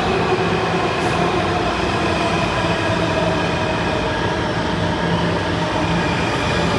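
Washington Metro Silver Line subway train running at the platform: a steady rumble of wheels on rail with an even motor whine.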